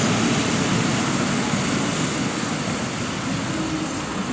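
Kyoto Municipal Subway Karasuma Line 10 series electric train running along the track and moving away, a steady rumble of wheels and motors that slowly fades.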